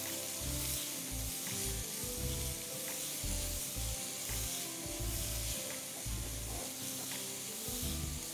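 Onion, ginger and garlic sizzling steadily as they sauté in olive oil in a pan, with soft background music.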